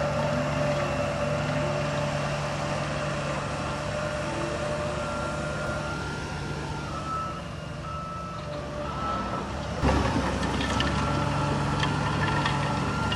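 Heavy diesel machinery running steadily while a reversing alarm beeps. About ten seconds in there is a sudden loud knock, and the engine note grows louder after it.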